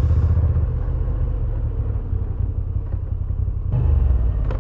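Moto Guzzi V7 850's air-cooled transverse V-twin running under the rider on the move, a low steady rumble. The engine note eases off about a second in and picks up again louder near the end, with one brief click just before the end.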